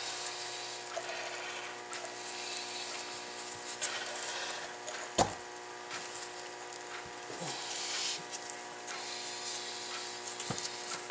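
Light clicks and handling sounds as a new piston is pressed by hand into an ATV's rear brake caliper over its freshly fitted seals, with one sharper knock about five seconds in, over a steady background hum.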